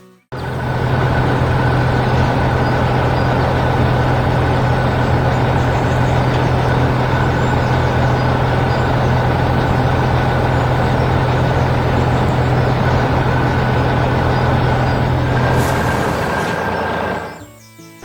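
Heavy truck engine sound effect running steadily, with a deep hum under a noisy rumble; it fades out about a second before the end.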